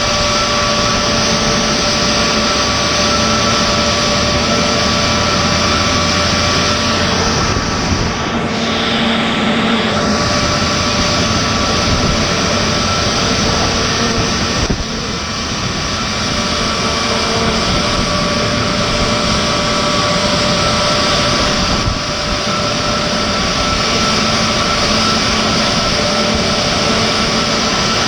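Jet airliner running steadily, a loud rushing noise with several constant whining tones, dipping briefly twice.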